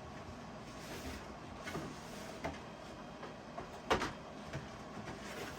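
Hands handling and opening a cardboard box set of model train cars: soft scrapes and rustles, with one sharp knock about four seconds in.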